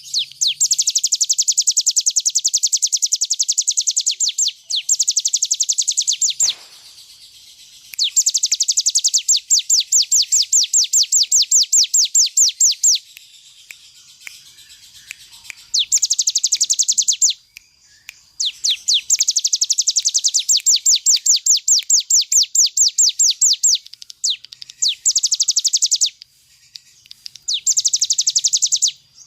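Ciblek gunung (a prinia) singing its rapid 'ngebren' drilling song: long trains of fast, high, evenly repeated notes, about ten a second, in bursts of one to five seconds separated by short pauses, about seven bursts in all.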